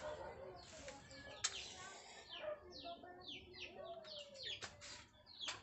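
Birds chirping in a quick series of short, falling chirps, with a few sharp clicks among them.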